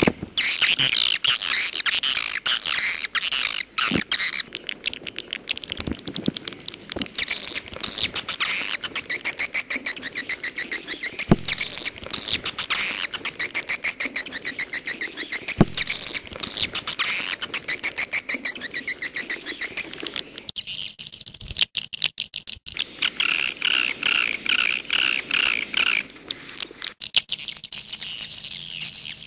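Swiftlet calls: dense, fast twittering chirps in rapid trains, a 'jaguar'-type swiftlet call recording of the kind played to lure swiftlets. The sound thins out and changes abruptly about two-thirds of the way through and again near the end.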